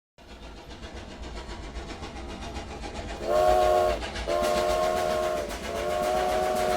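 A train rumbling and clattering, slowly getting louder, then its whistle sounding a chord three times: one short blast about three seconds in, then two longer ones.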